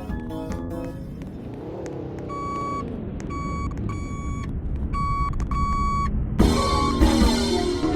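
Ice cream truck engine revving, with its reversing alarm beeping in a steady series of short beeps. The truck's jingle plays at the start, and cuts back in loudly near the end.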